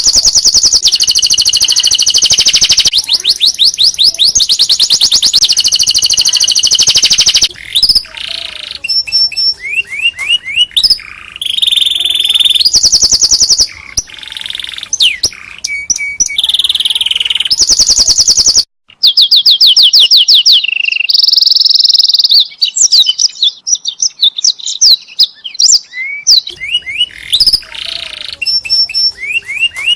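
Domestic canary singing loudly: long rapid trills and rolls of fast repeated high notes, broken by short pauses and changes of phrase.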